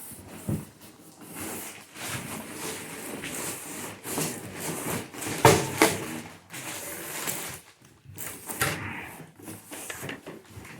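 Cardboard box and packaging being handled and rummaged through, with irregular rustling and scraping and two sharp knocks a little past the middle.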